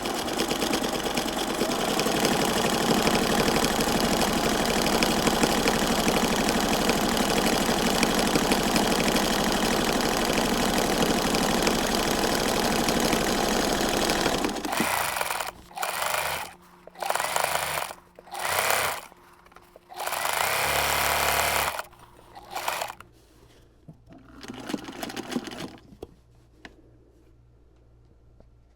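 A small motor-driven machine with a rapid chattering rhythm runs steadily for about fifteen seconds, then in a string of short runs of a second or two each before stopping.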